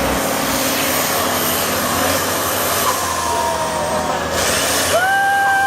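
Heavy off-road truck running hard, a loud steady rushing noise. About five seconds in, a steady high tone starts and holds.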